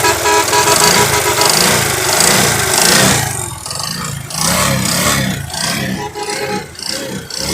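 Kawasaki 80cc motorcycle engine running, revved up and down in quick throttle blips about twice a second. It is louder and hissier for the first three seconds, then quieter.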